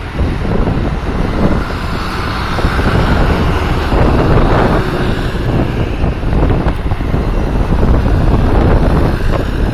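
Tractor engines running, with wind buffeting the microphone.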